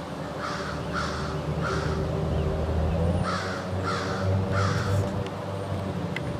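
A bird giving harsh, downward-sliding calls in two runs of three, the runs about a second and a half apart, over a steady low rumble.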